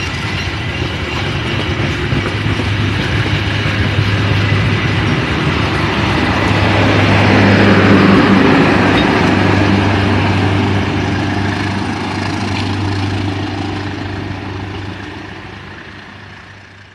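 Passenger train coaches rolling past on the rails, a steady low drone under the noise of the wheels, loudest about halfway through, then fading away as the train moves off.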